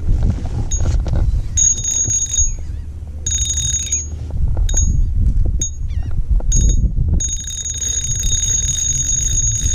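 A high-pitched electronic beeping alarm: short beeps of uneven length for several seconds, then a continuous tone from about seven seconds in. Underneath it there is a heavy, steady low rumble.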